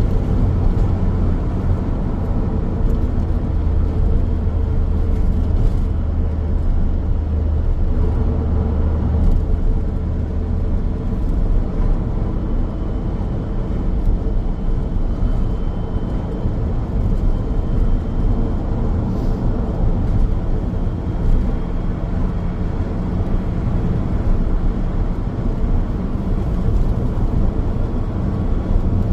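A car driving along a highway: steady tyre and road noise over a deep engine rumble, with a faint high whine through the middle.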